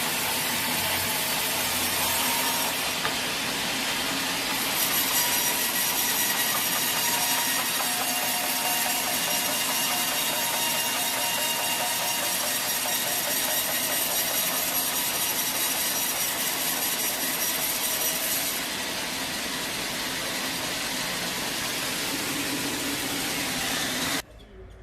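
Sawmill saw cutting through a teak log: a steady, loud, noisy cutting sound with faint steady machine tones underneath. It grows louder about five seconds in, eases off about three-quarters of the way through, and stops abruptly just before the end.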